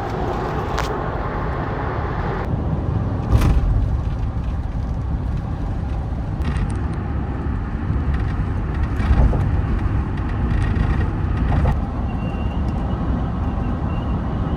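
Steady road noise of a pickup truck driving on the highway, a low rumble of tyres and engine, with a couple of brief knocks about three and nine seconds in.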